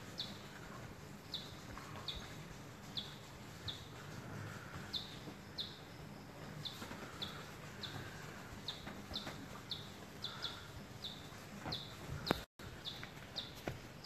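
A small bird calling with short, high chirps that slide downward, repeated over and over about one to two times a second, against a low steady background. The sound drops out completely for an instant about twelve seconds in.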